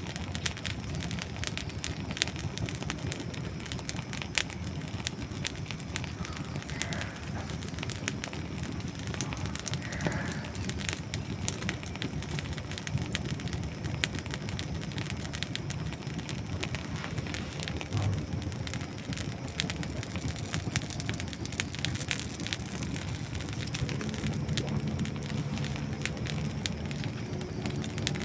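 Dry wood burning in a campfire, crackling with many small sharp pops over a steady low rush of flame.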